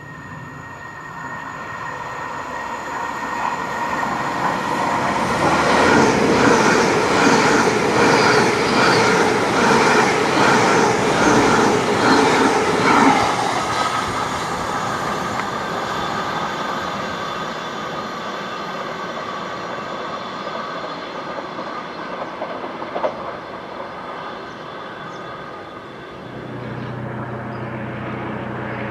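A passenger train passes. It grows louder over several seconds, then its wheels clatter over the rail joints in a regular rhythm of about two beats a second while it is loudest. It fades away slowly, with a steady whine under it.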